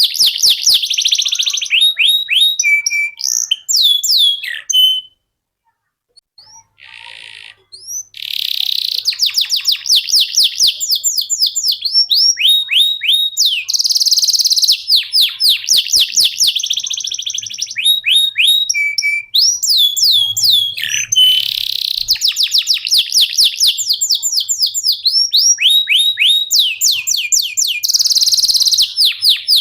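Domestic canary singing a long, fast song of high-pitched rolling trills and repeated chirps. It breaks off about five seconds in, falls nearly silent for a few seconds, then resumes its rapid trilling.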